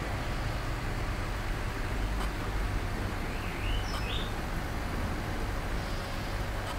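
Steady low background rumble, with a small bird giving a short chirping call about three seconds in.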